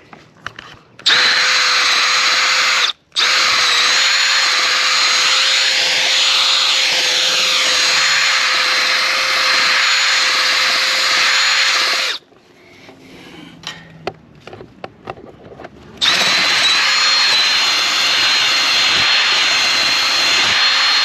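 Milwaukee 1/2-inch drill with a long Irwin bit boring through a gate post, running with a steady whine. It cuts out for a moment early on, stops for a few seconds past the middle with small knocks, then runs again.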